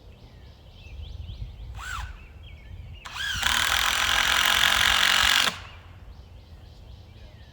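Power drill spinning up briefly twice, then running steadily for about two seconds before stopping abruptly.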